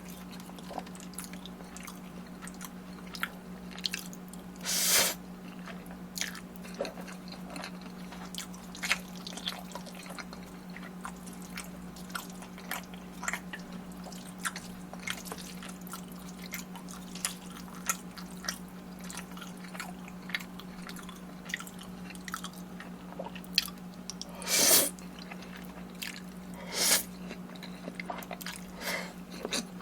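Close-miked eating: continual wet chewing and small mouth clicks, with three louder, longer mouthfuls about five seconds in and twice near the end. A steady low hum runs underneath.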